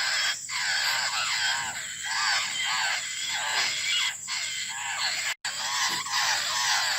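Young laughingthrushes begging for food: harsh, arched calls repeated rapidly and overlapping in a continuous chorus, with a momentary break about five seconds in.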